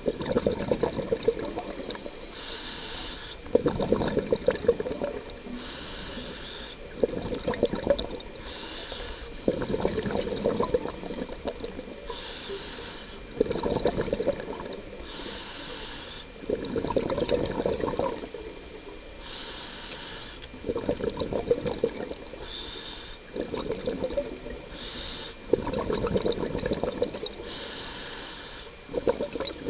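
Scuba diver breathing underwater through a regulator. Each breath is a short hiss on the inhale, followed by a louder gurgling burst of exhaled bubbles, repeating about every three seconds.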